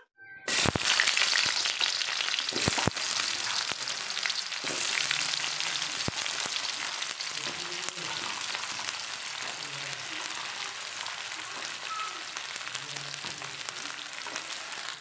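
Chopped onions frying in hot oil in a kadai: a steady sizzle that starts about half a second in, loudest for the first few seconds and then settling a little quieter. A few sharp knocks come in the first three seconds.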